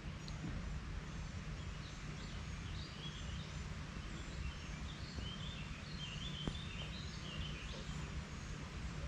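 Small birds chirping, many short calls scattered through, over a steady low outdoor rumble.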